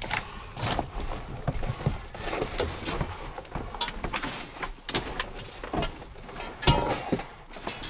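Footsteps and scuffing with irregular knocks and rustles, as of people moving about, with a louder knock near the end.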